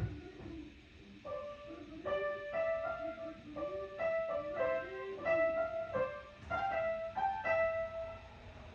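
Piano music: a string of separate notes played one after another, with a softer, wavering lower line under the first half.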